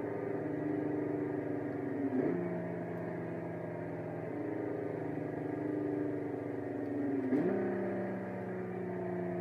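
Ferrari Dino 246 GT's V6 engine running hard at steady high revs. Its pitch dips sharply and recovers twice, about two seconds in and again near seven seconds.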